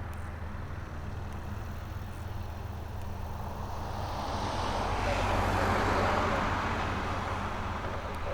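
Light propeller aircraft passing by. Its engine and propeller noise swells to a peak about six seconds in, then fades, over a steady low engine hum.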